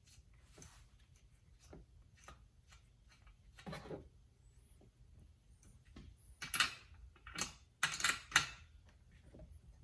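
Light clicks, taps and a few louder clattering knocks of hand tools and small metal and plastic chainsaw parts being handled, with the loudest clatters about two-thirds of the way through.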